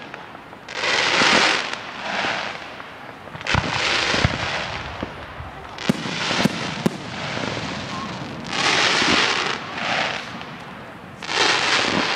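Aerial fireworks going off: sharp bangs of shells bursting, a quick cluster of them about six to seven seconds in, between second-long noisy rushes of bursting and crackling shells.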